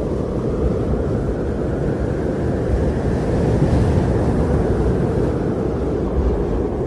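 Strong blizzard wind blowing as a steady low rush, swelling in a gust around the middle.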